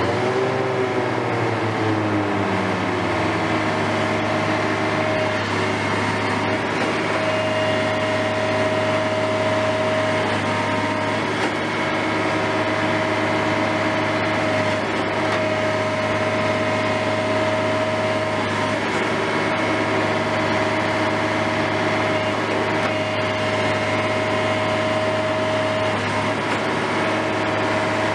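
Engine of a heavy construction machine running steadily, its revs dropping over the first couple of seconds and then holding at an even, humming pitch.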